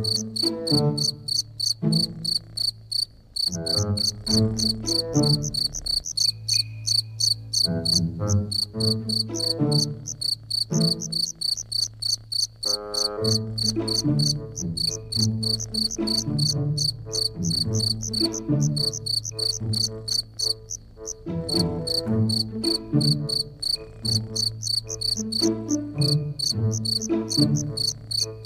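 A cricket chirping steadily, about four short high chirps a second, over soft music with slowly changing notes.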